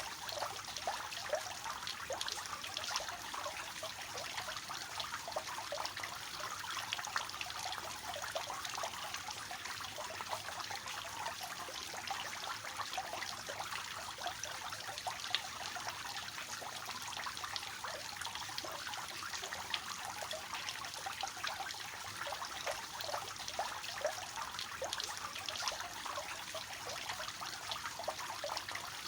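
Water falling and splashing from a three-tiered fountain, a steady trickle with many small splashes.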